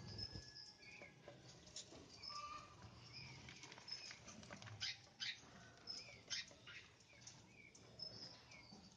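Faint small-bird chirps: short calls repeating about once or twice a second, with a few sharp clicks in the middle.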